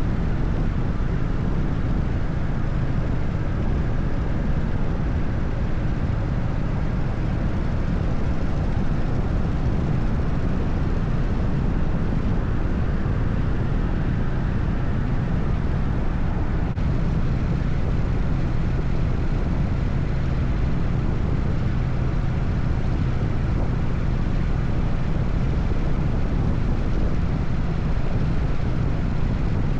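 Harley-Davidson Evolution V-twin engine on an FXSTS Softail Springer running steadily under way, a constant low engine note under a haze of wind and road noise with no revving changes.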